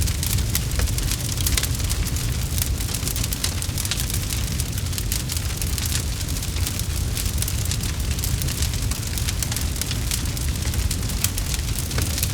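Campfire crackling: many sharp snaps and pops from the burning wood over a steady low rumble of the fire.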